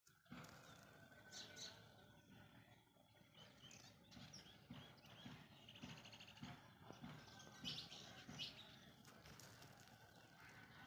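Faint birds chirping: scattered short high calls, with a quick trill about halfway and the clearest calls about three-quarters of the way through.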